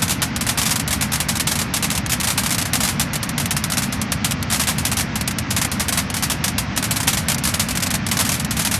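Wood fire crackling and popping: a dense, steady stream of small sharp cracks over a continuous hiss.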